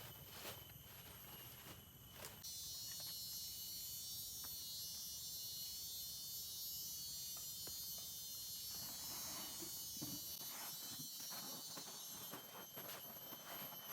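Insects calling in a shrill, high-pitched chorus that starts abruptly about two seconds in and stops near the end, with scattered soft clicks and rustles.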